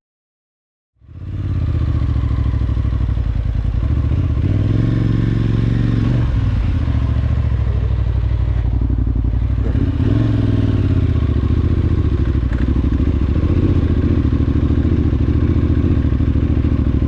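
Silence for about a second, then an adventure motorcycle's engine running steadily while riding, its pitch rising and falling slightly a few times with the throttle.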